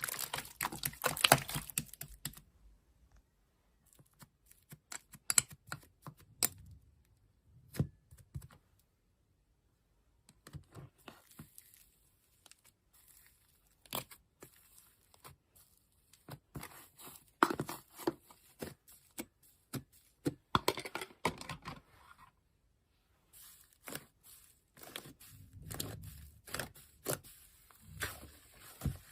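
Slime being squished and stretched by hand, giving irregular crackly clicks and tearing sounds, with a few short pauses.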